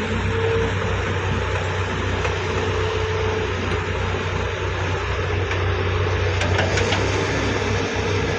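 Heavy diesel engines running steadily at a dig site: a wheeled excavator working as it loads mud into a dump truck, with a constant low rumble and a faint on-and-off whine.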